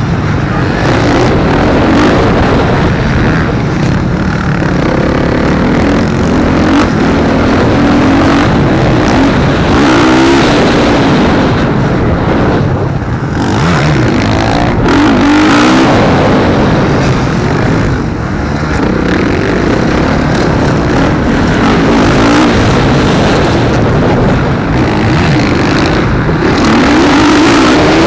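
Motocross bikes racing on the track, their engines loud and continuous. The revs climb and drop again and again as the riders accelerate and shut off through the circuit.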